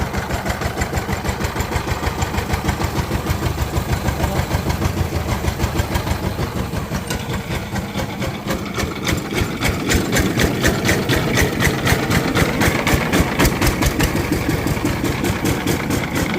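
Diesel engine running with an even, regular beat, growing louder about ten seconds in.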